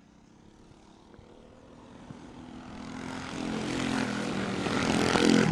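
Mini bikes' small engines running as the pack comes closer, a buzzing drone that grows steadily louder from about two seconds in.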